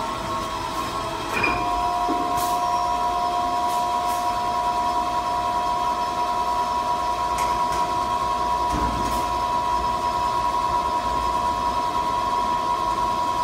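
Toilet paper log saw cutting machine running with a steady mechanical whine. A second, lower tone joins about a second and a half in, and a few faint clicks sound over it.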